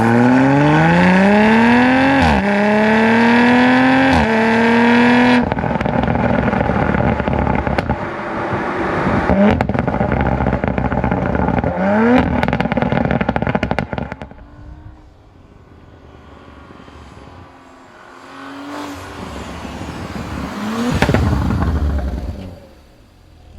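A tuned 2021 Audi RS5's twin-turbo V6, with CTS downpipes and the factory sport exhaust, accelerates hard: the engine note climbs and drops at two quick upshifts in the first few seconds. It then runs loud and rough with crackles and short blips, eases off after about 14 s, and surges briefly again near the end.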